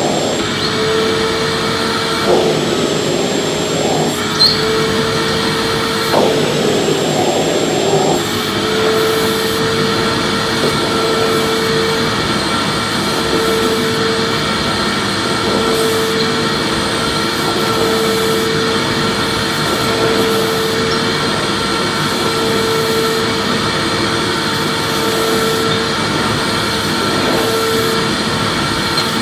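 Electric vacuum cleaner running steadily: an even rush of air with a constant motor whine, a little uneven during the first several seconds.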